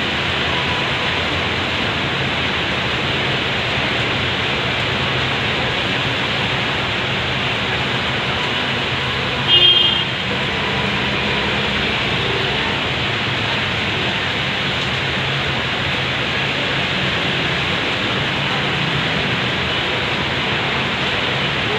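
Steady hiss of heavy rain, with one short, high-pitched toot about ten seconds in.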